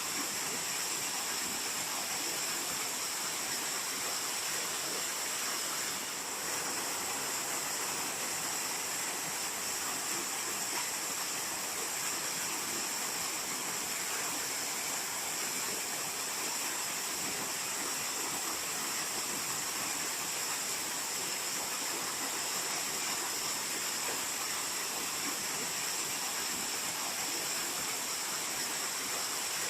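Waterfall: a steady, unbroken rush of falling water, its hiss strongest in the high range.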